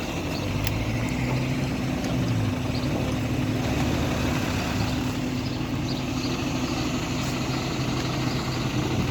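Tow truck's engine running steadily at a low, even idle.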